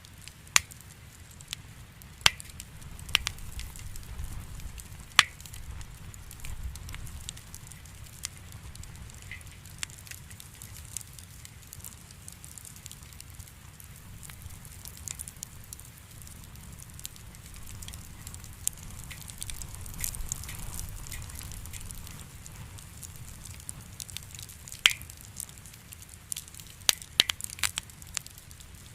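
Wood campfire burning: firewood crackling, with sharp pops that cluster in the first few seconds and again near the end, over a low, steady rumble of flame.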